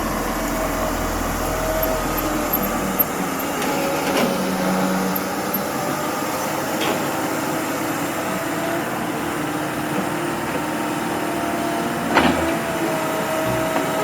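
Heavy construction machinery running steadily, its engine and a whine holding a constant pitch, with a few short knocks about four, seven and twelve seconds in.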